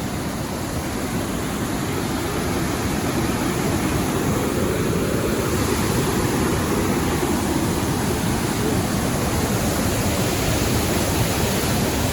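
Waterfall rushing, a steady roar of falling water that grows louder over the first few seconds and then holds.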